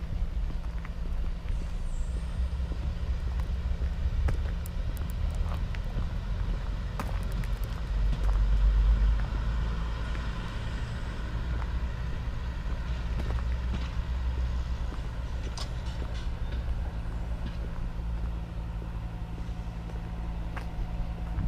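A steady, low engine hum that swells for a couple of seconds partway through, with scattered light clicks.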